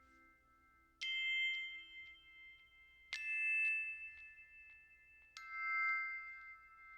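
Three struck bell-like chime notes, about two seconds apart, each ringing on and slowly fading.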